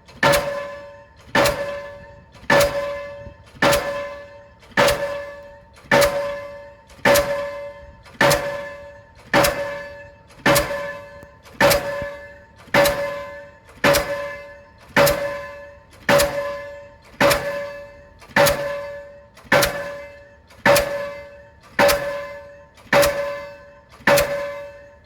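Delmag D46-32 diesel pile hammer striking a PHC concrete pile in a steady rhythm, a little under one blow a second. Each blow is a sharp clang with a ringing metallic tone that dies away before the next.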